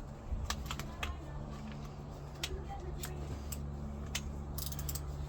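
Scattered sharp clicks and taps of hand tools working on engine bolts, with a short cluster of clicks near the end, over a steady low hum.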